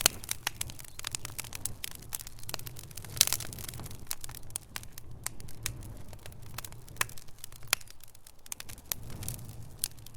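Wood fire crackling, with irregular sharp pops and snaps over a steady low rumble; the loudest pop comes about three seconds in.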